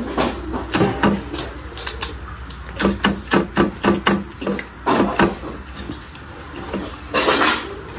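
Close-up mouth sounds of eating rice and curry by hand: chewing and wet lip smacks, with a quick rhythmic run of smacks about three to four seconds in and a louder, noisier burst a little after seven seconds.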